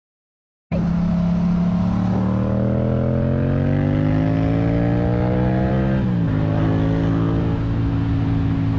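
Motorcycle engine pulling under acceleration, starting just under a second in. Its pitch rises steadily for about four seconds, drops at a gear change about six seconds in, then holds steady.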